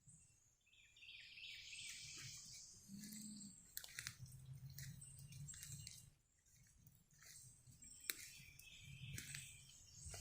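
Faint birdsong: several birds chirping and trilling in short runs, with scattered sharp clicks.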